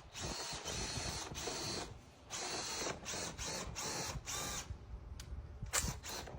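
Power drill spinning a rotary dryer-vent cleaning brush in bursts, the motor starting and stopping several times, then a quieter stretch with a couple of clicks near the end.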